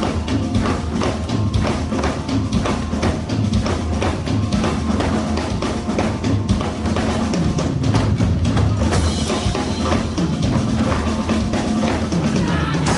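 Music with a drum kit and percussion playing a fast, steady beat over a bass line.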